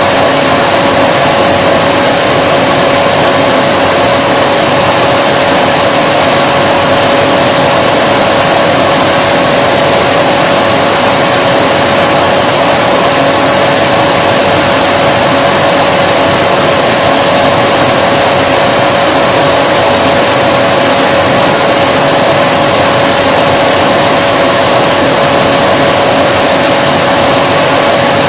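Vacuum cleaner running steadily, a loud even rushing noise with a constant motor whine, unchanging throughout.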